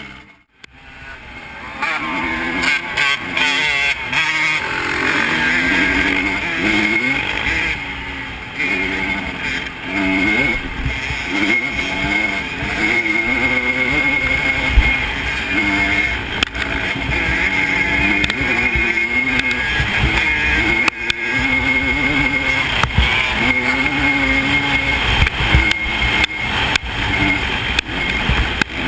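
Off-road engine running under changing throttle, its pitch rising and falling as it revs, with a brief drop-out near the start.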